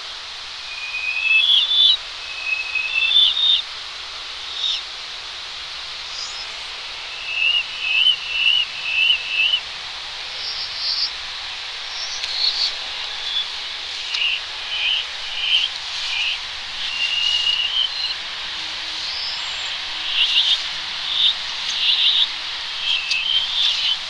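A songbird's song played backwards: short phrases of quick high notes, each phrase repeated a few times before the next, with added reverb. A steady hiss of distant road traffic runs underneath.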